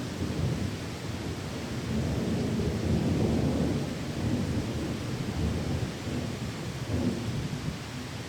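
Steady heavy rain with a low rolling rumble of thunder that swells about two seconds in and eases off by the middle.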